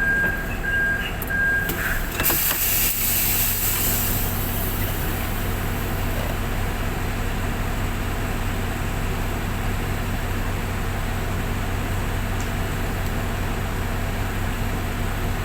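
Semi truck's diesel engine running steadily with a low drone. In the first two seconds a few short high beeps sound, and about two seconds in there is a loud hiss of air lasting about two seconds.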